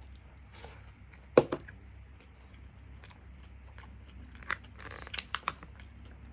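Close-up crunching and chewing of karaage, Japanese fried chicken, as its crisp crust is bitten. One loud sharp crack about a second and a half in, then a few smaller crackles near the end.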